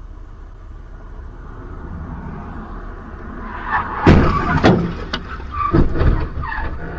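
Steady car road rumble, then about four seconds in a car collision: a loud bang followed by several more knocks and crunches over about two seconds.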